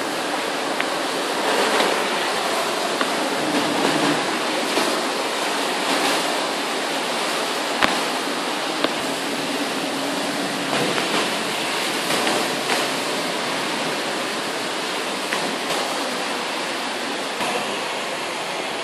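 Heavy rain pouring steadily in a severe thunderstorm, with scattered sharp ticks through it.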